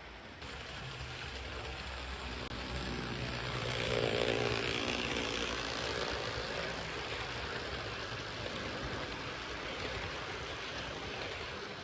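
HO scale IHC 2-8-2 steam locomotive model running on track: a steady electric-motor whir with wheel rumble and rattle, swelling about four seconds in and then slowly easing off.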